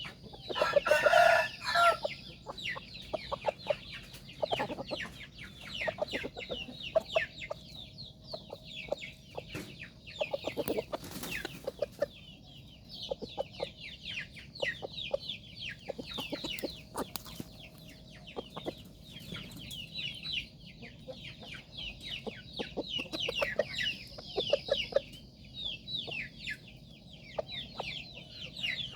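Burmese gamecocks clucking and giving many short, high, falling chirps as they forage, with one loud, longer call about a second in.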